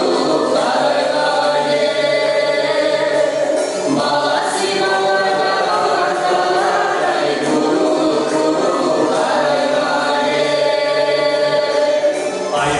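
A choir of several voices singing together in sustained phrases that rise and fall, with no instruments standing out.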